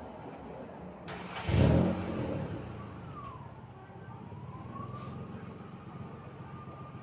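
1999 Ford/Mercury Cougar's 2.5-litre V6 running with its catalytic converters removed: idling, with one quick rev blip about a second and a half in before it settles back to idle.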